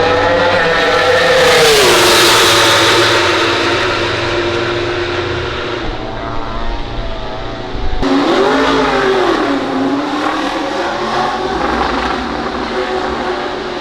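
MotoGP prototype racing motorcycles at speed on the circuit: a loud engine note drops sharply in pitch as one passes close, about two seconds in. Near the middle the sound changes abruptly, and another engine note rises and falls.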